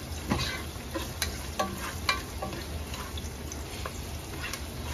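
Diced onions and garlic sizzling in hot oil in a coated pot while a black plastic spatula stirs them, clicking and scraping against the pot every half second or so, less often in the second half. This is the sauté (gisa) stage, cooking the onions until translucent.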